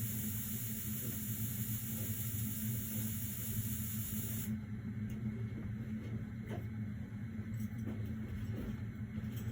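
A steady low hum of running machinery, with a high hiss that cuts off suddenly about halfway through and a few faint clicks after it.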